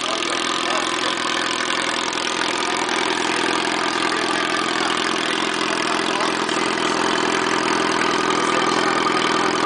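Engine idling through its exhaust, a steady running sound that grows slightly louder toward the end.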